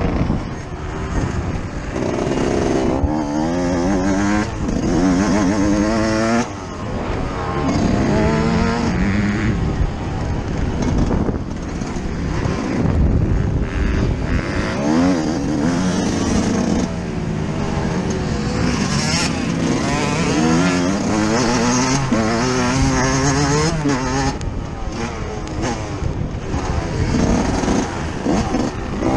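Yamaha YZ125's single-cylinder two-stroke engine heard from on board as it is ridden hard, its pitch climbing again and again as it revs out through the gears and dropping back at each shift or when the throttle is rolled off.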